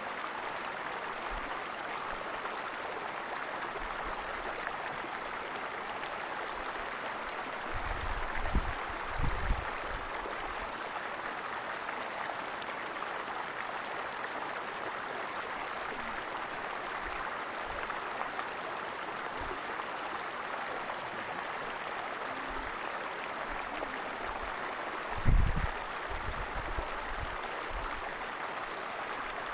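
Waterfall water rushing steadily. Brief low rumbles rise over it about eight seconds in and again near the end, the later one the loudest.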